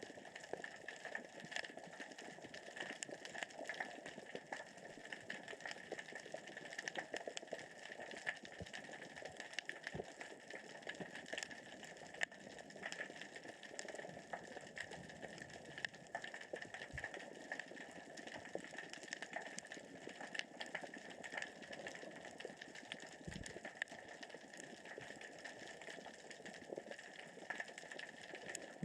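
Underwater crackle of many tiny clicks: small rocks rolling across the sea floor as the current and tide move. A few low thuds now and then.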